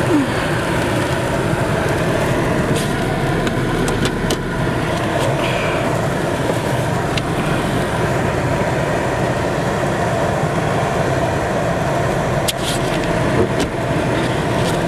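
Car engine and tyre noise heard from inside the cabin as the car manoeuvres slowly through snow into a parking space, a steady running sound with a few brief sharp clicks.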